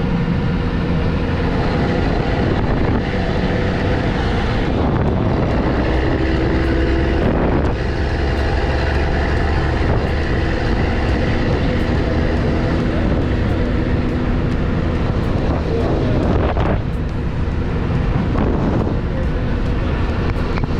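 Motor vehicle engine running with road and wind noise, heard from on board while travelling, its pitch shifting now and then as it speeds up and slows.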